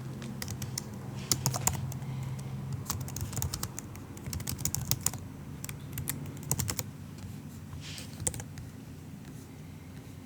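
Soft typing on a MacBook keyboard: irregular runs of light key clicks in short bursts, thinning out and stopping about eight seconds in, over a faint low hum.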